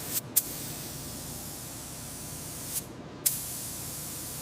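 Paint spray gun hissing steadily as it sprays coating onto bare metal. The spray cuts out twice, briefly near the start and again about three seconds in, and each time restarts with a sharp burst.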